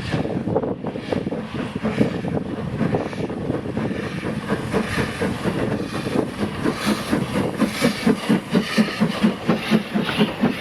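Steam locomotive working, its exhaust chuffing in a steady rhythm of about four beats a second that grows louder over the last few seconds.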